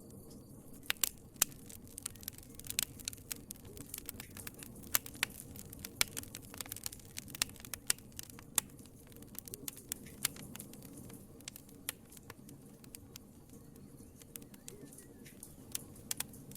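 Wood fire crackling in a fireplace: frequent sharp, irregular pops and snaps over a low steady rumble of the flames.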